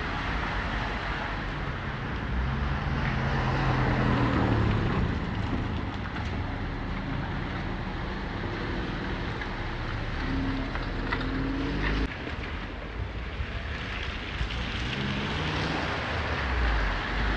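Steady rain falling, with vehicle engines swelling and fading as traffic passes a few times.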